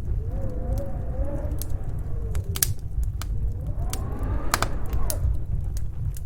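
Snowstorm wind howling over a steady low rumble, its pitch swelling and falling, with the rising howl strongest around four to five seconds in. Sharp pops and crackles of a wood fire in a fireplace come at scattered moments, a cluster of them about four and a half seconds in.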